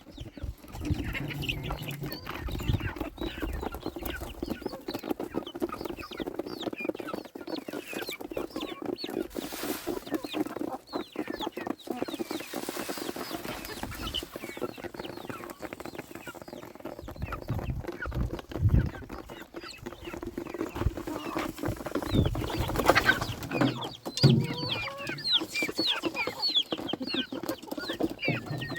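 Chickens clucking, with many short high chirps over a steady low hum.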